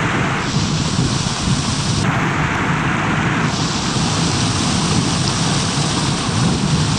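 Loud, steady rush of a fast glacial stream. Its tone shifts abruptly every second or two.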